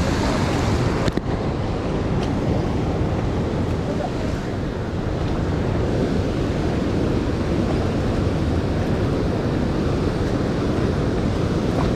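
Steady rushing noise of river water, with wind buffeting the microphone; a short click about a second in.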